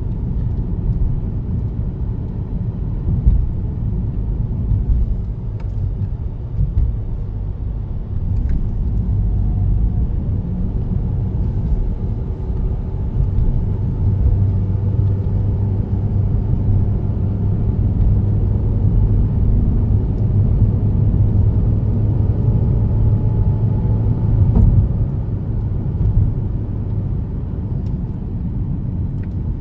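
Car driving on a country road, heard from inside the cabin: a steady low rumble of engine and tyres, with a few brief knocks.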